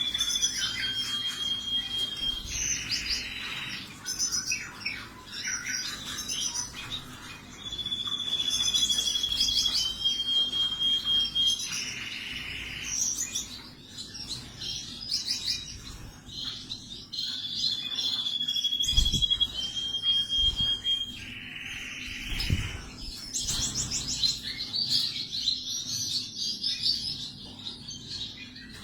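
Canary singing: rapid high trills alternating with long, level whistled notes and a short buzzing note, the same sequence coming round about every nine seconds. Two low thumps come about two-thirds of the way in.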